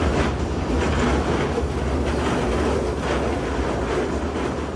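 Kurobe Gorge Railway's narrow-gauge sightseeing train running along the track: a steady rumble of wheels on rail with a few faint clacks.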